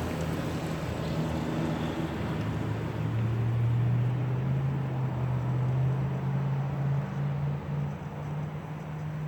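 A vehicle engine running with a steady low drone. Its pitch climbs slightly through the middle and drops near the end.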